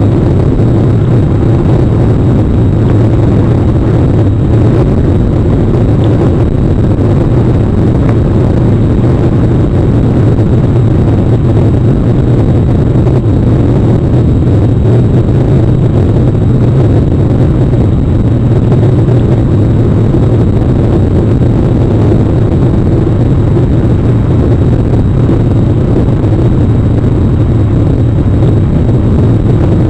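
Rain on an outdoor webcam's microphone: a loud, steady rushing noise with a strong low rumble and no breaks.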